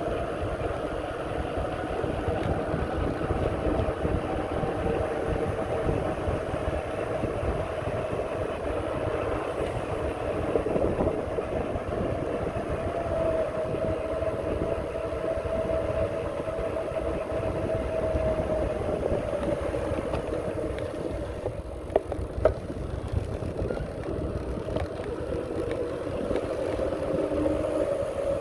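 Riding noise from a bicycle ride: wind rumbling on the microphone over a steady whine that drifts slightly in pitch, with two sharp clicks about two-thirds of the way through.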